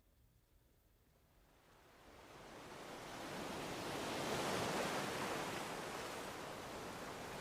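Ocean surf: after a second or two of near silence, a wave washes in as a rising rush of noise, peaks about halfway through, then settles into a steady wash.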